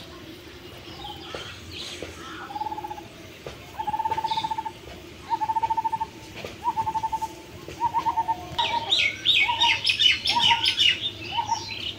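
Birds calling: one bird repeats a short trilled note about every second and a half, and about nine seconds in a busier, higher chattering of birds joins it for a couple of seconds.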